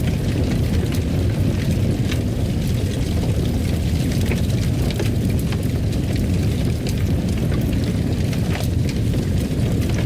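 Fire burning in a fireplace: a steady low roar with scattered sharp crackles and pops.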